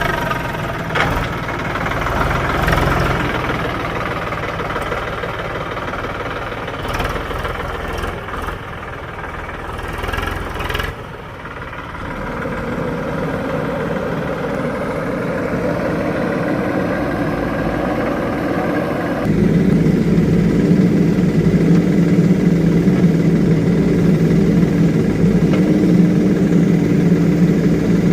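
Diesel engines of a JCB and a tractor running, with a few sharp knocks in the first part. About two-thirds of the way in the sound steps up suddenly to a louder, steady engine note.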